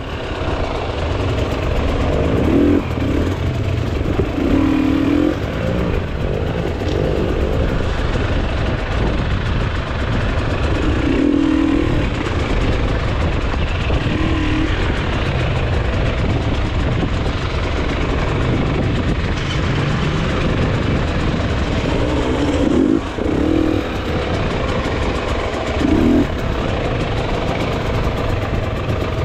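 Enduro motorcycle engine running under load and revving up and down again and again, in short bursts of throttle.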